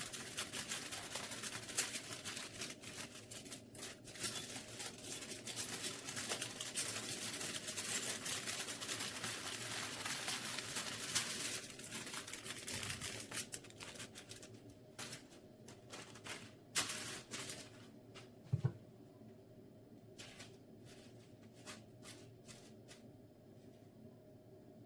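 Dense rustling and crinkling handling noise with many small clicks and taps, thinning after about fifteen seconds to scattered clicks and one soft thump.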